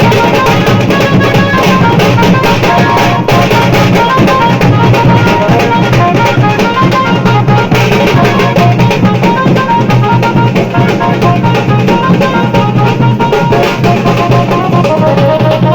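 Loud band music: drums beating steadily under a melody of short repeated notes.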